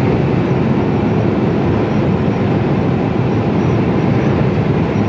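Steady engine and road rumble inside a Mercedes-Benz Actros lorry cab while driving along.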